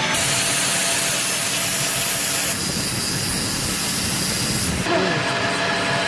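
Workshop power tool at work on metal or wood: a steady hiss-like grinding noise whose pitch and character change abruptly a few times.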